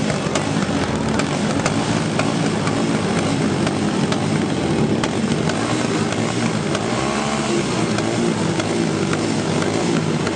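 Motorcycle engines running, with one rev rising and falling about seven seconds in.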